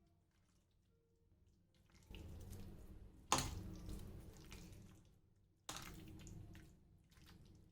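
Boneless chicken being mixed in a wet marinade of flour, corn flour, egg and soya sauce, in three squelching strokes about two, three and five and a half seconds in, each fading away.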